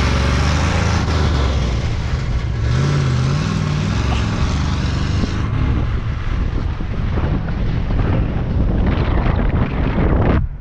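1972 Chevy C20's 350 small-block V8 pulling under acceleration through a leaking exhaust, its note rising and falling a couple of times under heavy wind rush. It sounds really bad: an exhaust leak at the headers, from bad gaskets or rusted pipes, and it sounds like it's not firing on all cylinders. The sound cuts off abruptly near the end.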